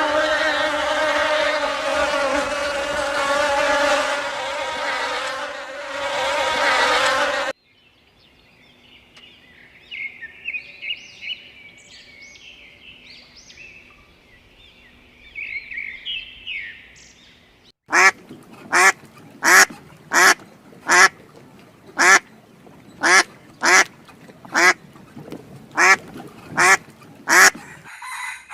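A dense swarm of insects buzzing for about seven seconds, then a stretch of faint high chirping. Then a duck quacking about a dozen times, evenly spaced about two thirds of a second apart.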